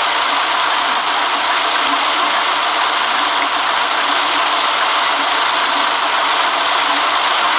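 Steady running noise of a city bus on a rain-wet road: an even hiss with no breaks.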